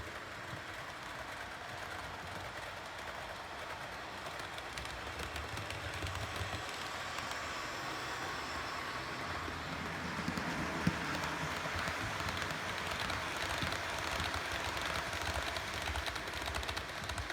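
Model railway train running along the track: a steady motor hum and wheel noise, with one sharp click a little past halfway.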